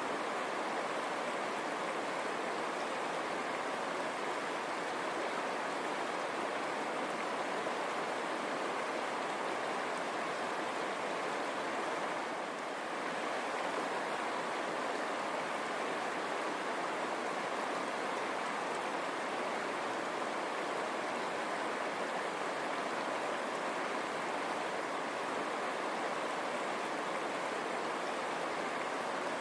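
River water running over stones: a steady rushing flow, briefly a touch softer about halfway through.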